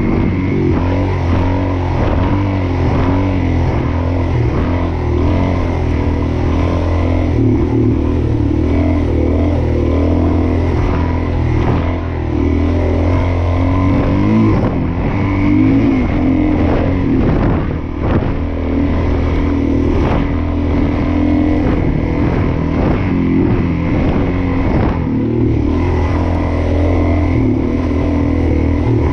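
Suzuki DR-Z400S's single-cylinder four-stroke engine running while the bike is ridden off-road, its revs rising and falling continually with the throttle. The engine eases off briefly a couple of times.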